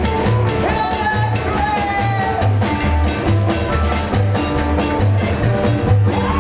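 Live rockabilly band playing, with a steady pulsing bass line, drums and a guitar with bending notes.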